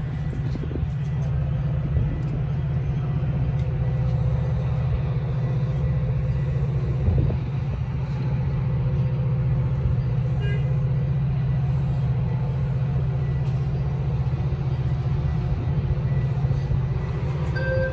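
Stopped Metra bilevel commuter train idling at the platform, giving a steady low hum.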